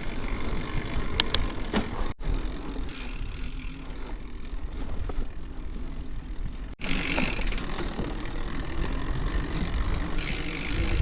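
Riding noise from a fat-tyred mountain bike on a dirt field trail: wind rumbling on the action-camera microphone over tyre and drivetrain noise, with a few light clicks. The sound drops out for an instant twice.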